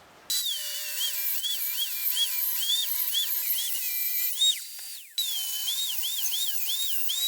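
High-speed power tool motor whining while cutting wood, its pitch dipping and recovering about twice a second as it loads and unloads. It runs in two spells with a short stop about two-thirds of the way through.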